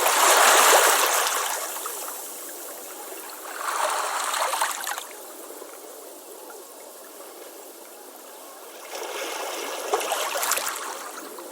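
Ocean waves washing up on a beach. Three waves surge and draw back: the first, just at the start, is the loudest, with a smaller one about four seconds in and another near the end.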